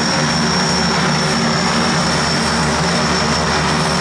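Antonov twin turboprop aircraft passing with its engines running: a loud, steady propeller drone with a high, even turbine whine over it.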